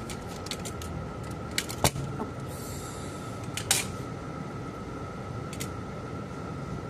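Light scattered clicks and clatter of small hard objects being handled, with two sharper clicks about two and four seconds in and a short hiss between them, over a steady high hum.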